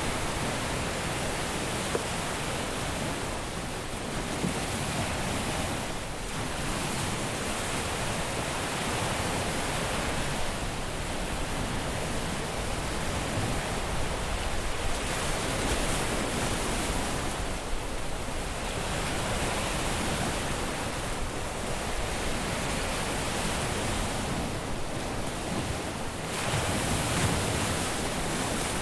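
Caribbean surf washing onto a beach: a steady rush of breaking waves that swells and eases every few seconds, one wave coming in a little louder near the end.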